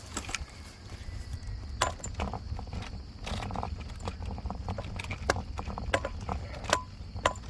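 Footsteps, landing irregularly about once or twice a second, over a steady high chirring of crickets.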